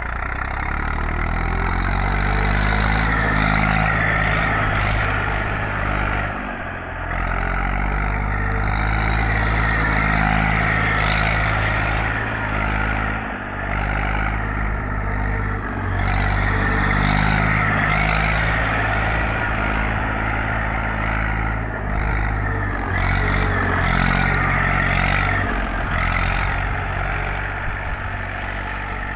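Eicher 380 tractor's diesel engine running steadily, its level dipping briefly a few times.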